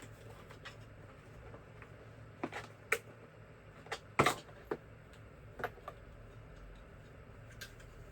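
Light clicks and taps of screwdriver bits and a plastic case being handled, about seven separate ones spread over several seconds, the loudest a little past the middle.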